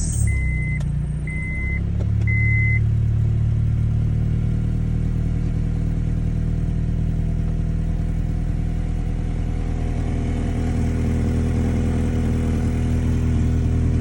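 Honda F20B 2.0-litre four-cylinder engine in a 1998 Prelude idling steadily just after starting. A warning chime beeps three times at an even pace in the first three seconds.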